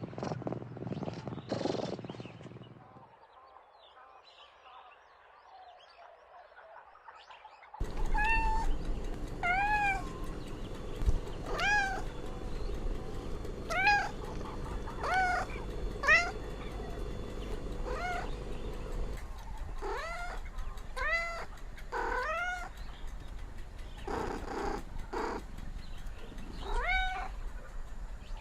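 A domestic cat purring briefly, then, after a few seconds of quiet, meowing over and over, about one meow a second, each meow rising and then falling in pitch.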